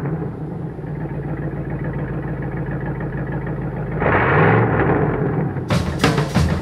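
Supercharged V8 drag car engine idling, blipped up once about four seconds in. Drum-heavy music kicks in near the end.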